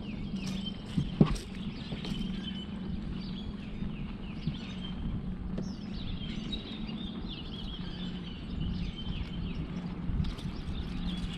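Birds chirping and calling repeatedly over a steady low hum, with one sharp click about a second in.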